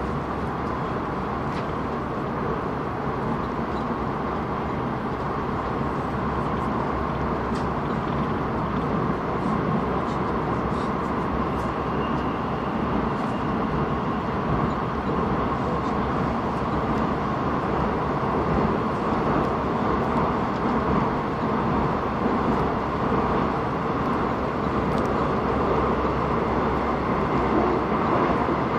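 Airport Railroad express train running at speed through a tunnel, heard from aboard: a steady rumble of wheels on rail and rushing air, growing a little louder toward the end.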